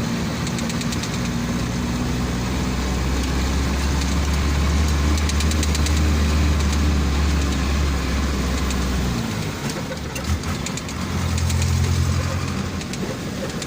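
Truck engine running with a steady low drone; its note drops away about nine seconds in and comes back strongly a couple of seconds later.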